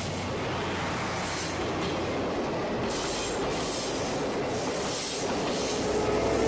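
Passenger coaches of a steam-hauled train rolling past close by: a steady rumble of steel wheels on the rails, with wheels clicking over the rail joints in the middle. Music starts to come in near the end.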